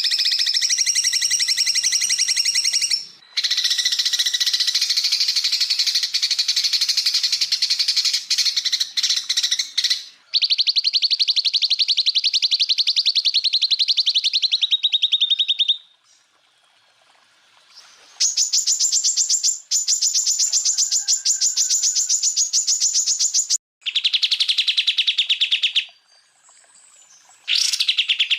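Cucak ijo (green leafbird) song made of 'tembakan': long, very rapid trills of repeated high notes. There are about six bursts of a few seconds each, broken by short pauses and one longer pause about two-thirds through.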